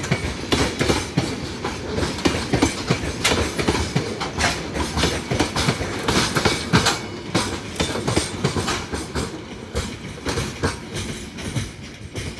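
Railway wagons rolling past, their wheels clattering over rail joints in a dense, uneven clickety-clack that eases slightly toward the end.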